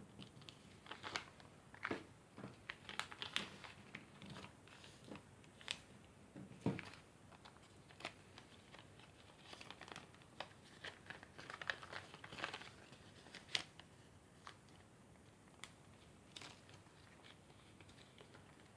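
A sheet of junk-mail paper being folded and creased by hand: irregular crinkles and short crackles of the paper.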